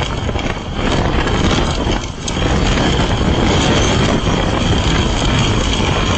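A heavy engine running steadily and loudly, a constant rumbling engine noise, getting somewhat louder about a second in and again a little after two seconds.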